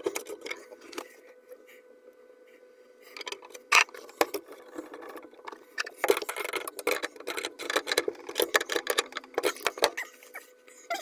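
Irregular metallic clicks, clinks and knocks of plumbing tools and fittings being handled, busiest in the middle stretch, over a faint steady hum.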